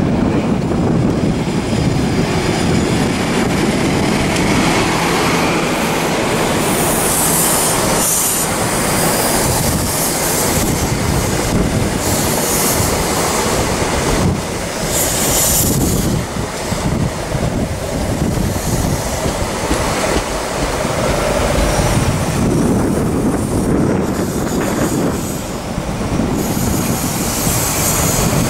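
East Midlands Trains HST (InterCity 125) with diesel power cars at each end running past close by on the near line: a loud, steady rumble of wheels on rail, with high-pitched wheel squeal rising and fading several times.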